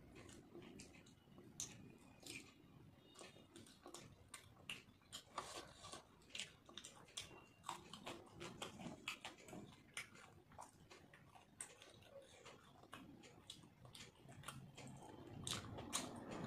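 Faint, close-up chewing and wet mouth clicks of a person eating rice and curry by hand, a stream of small clicks. A low hum builds in the last couple of seconds.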